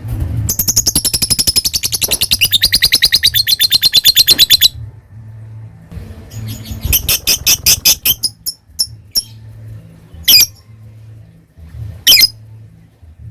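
Lovebird in a long 'ngekek' chatter: a rapid string of sharp, high notes, about ten a second, growing louder for about four seconds. A shorter burst follows, then a few single shrill calls.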